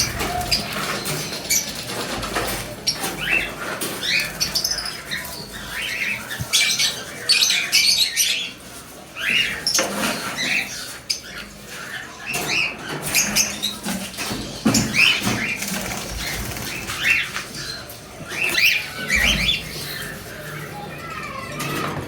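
A flock of budgerigars chirping and chattering: many quick, overlapping chirps.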